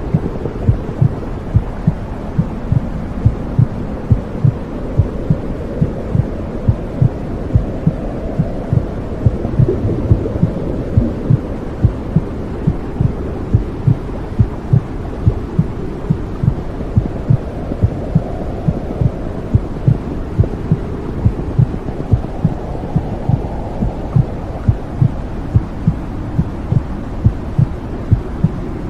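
Womb sound for soothing babies: a steady heartbeat thumping at an even pace, roughly one to two beats a second, over a continuous low whooshing rumble.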